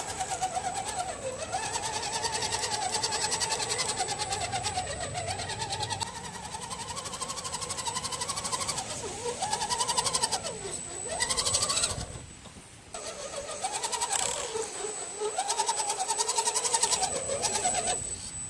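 Redcat Gen 7 RC crawler's electric motor and geartrain whining as it drives, the pitch rising and falling with the throttle, with a steady high electronic whine over it. The motor stops briefly about twelve seconds in, then picks up again.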